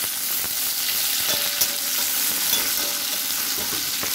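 Chopped chillies, ginger and tomato sizzling steadily in hot oil in a wok, with a spatula scraping as they are stirred.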